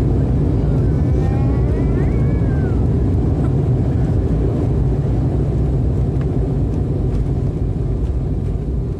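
Steady low rumble of an airliner's engines and airflow heard from inside the passenger cabin, with a few faint gliding tones about a second or two in.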